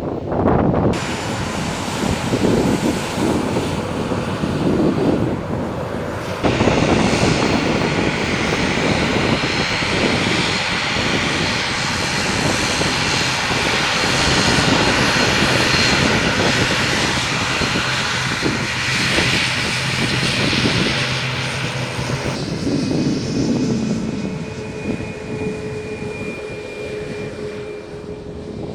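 Jet airliner's engines passing loud and close, a dense rushing noise. It thins out over the last few seconds, leaving a steady whine as it fades.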